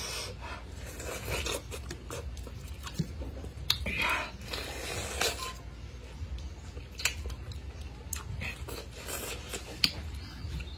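A person biting and chewing fresh pineapple, with irregular short crunchy clicks and a few brief wet smears of sound, over a low steady hum.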